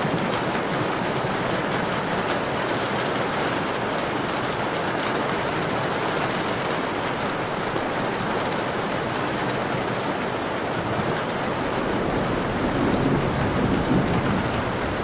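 Steady heavy rain pattering on a window, with many small drop ticks. A low rumble of distant thunder swells about twelve seconds in.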